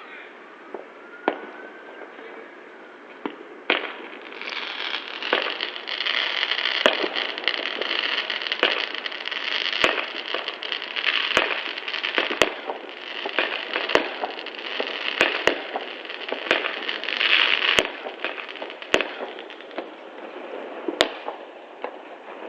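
Fireworks going off: sharp bangs scattered throughout, with a dense crackling barrage from about four seconds in that thins out near the end.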